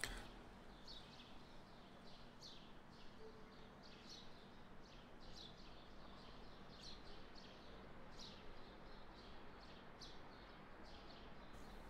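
Near silence, with a bird faintly chirping in short high notes about once a second over a low room hum.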